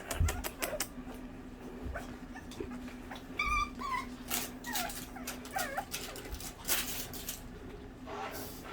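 Havanese puppies whimpering and giving short high yips, with scattered sharp clicks near the start and a faint steady hum underneath.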